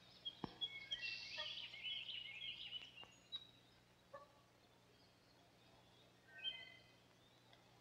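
Faint bird chirps: quick clusters of short high calls for the first few seconds and another brief burst near the end, with a few soft clicks.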